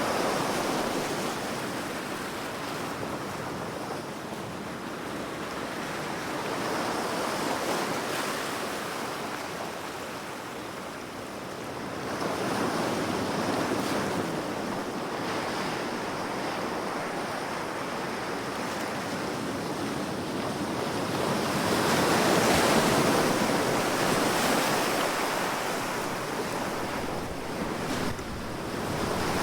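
Ocean waves washing onto a shore in slow surges, the loudest about halfway and again toward the end, with some wind on the microphone.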